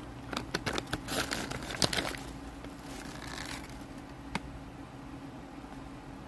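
Crinkling and crackling in quick irregular bursts over the first two seconds, a softer rustle a little after three seconds and one sharp click about four seconds in, over a steady low hum.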